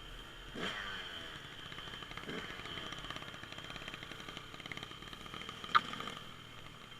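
Dirt bike engine running at a distance, a fast even pulsing under a steady high whine, with one sharp click near the end.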